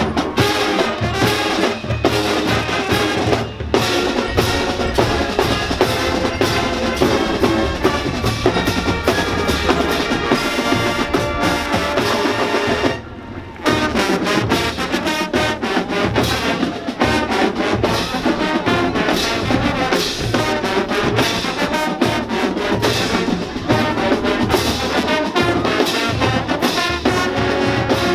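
High school marching band playing a field show: brass (trumpets and trombones) over the drumline, with a sudden short break about halfway through before the full band comes back in.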